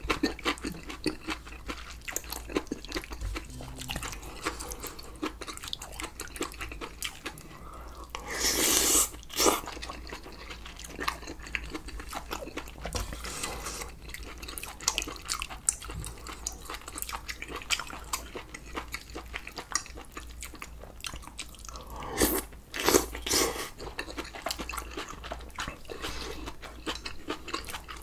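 Close-miked chewing and crunching of food, a dense run of small wet clicks and crackles. Two louder, longer noisy stretches come about eight and twenty-two seconds in.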